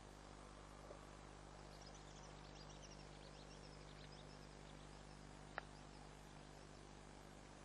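Faint, quick chirps of small birds, high-pitched and clustered in the first half, over a steady low hum and hiss. A single sharp click comes about five and a half seconds in.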